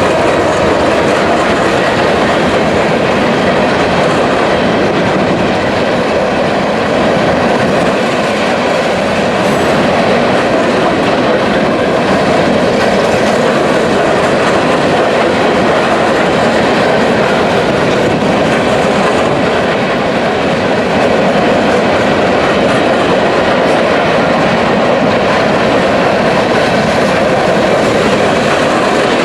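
A train passing close by: a steady, loud rolling noise of its wheels on the rails that runs unbroken throughout.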